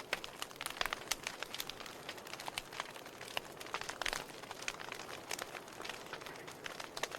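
Wood fire burning in a fireplace, crackling: irregular sharp pops and snaps over a steady soft hiss, with a denser run of snaps about four seconds in.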